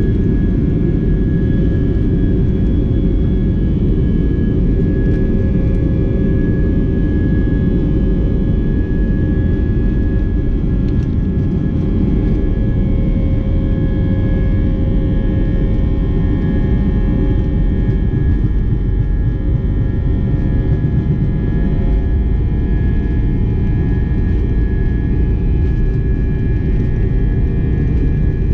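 Steady jet engine and airflow noise inside the cabin of an Airbus A319 airliner: a low, even rumble with a few constant hums above it.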